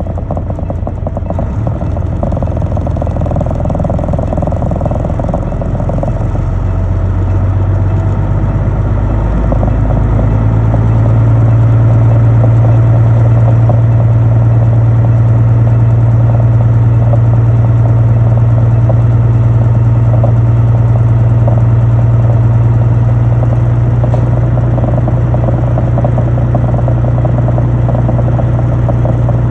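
Heavy vehicle engine running steadily. About ten seconds in it speeds up a little and gets louder, then holds at that higher speed.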